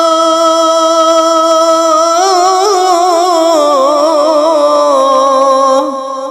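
One voice singing a Bengali gojol, an Islamic devotional song, holding a long note on the last syllable of a line. About two seconds in, the note breaks into wavering ornamental turns, and it fades near the end.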